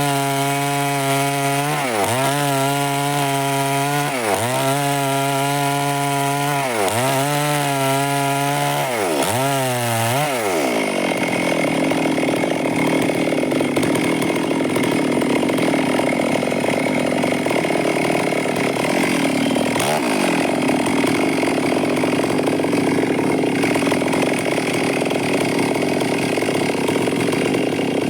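Stihl two-stroke chainsaw running and cutting wood. For the first ten seconds its engine pitch drops and climbs back about every two seconds, then it runs steadily.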